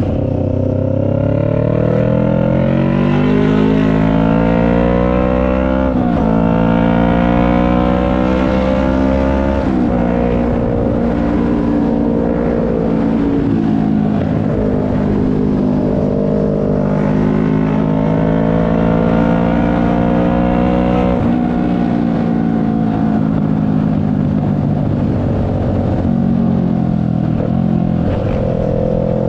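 CFMoto 400NK's parallel-twin engine accelerating, its pitch rising and then dropping sharply at upshifts about 6 and 10 seconds in, then running at a steadier cruise with small throttle changes and an easing-off about two-thirds of the way through.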